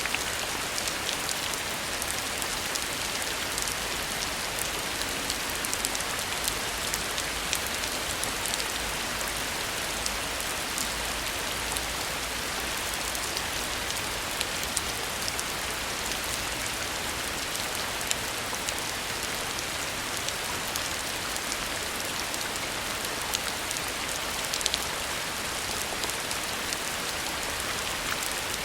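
Heavy rain falling steadily, a dense hiss with scattered sharp drips and taps of drops.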